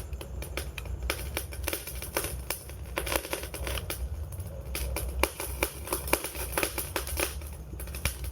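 Wood fire crackling: frequent, irregular sharp pops and snaps over a steady low rumble of the burning fire.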